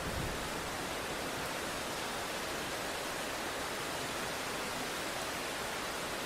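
Rain falling, a steady even hiss with no thunder.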